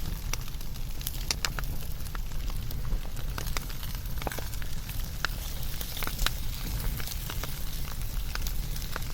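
Wood fire burning, with a steady low rumble and frequent irregular sharp crackles and pops from the burning wood.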